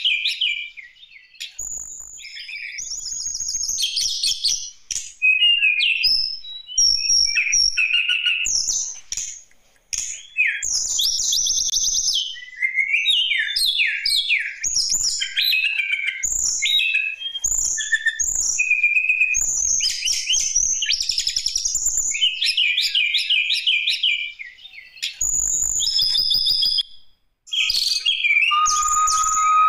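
Tledekan gunung songbird singing continuously in rapid, varied phrases of high chirps, trills and warbles, with short pauses. Near the end it holds a steady whistled note.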